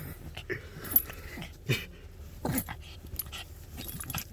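A pet dog making a few short vocal sounds while playing, the sharpest about a second in.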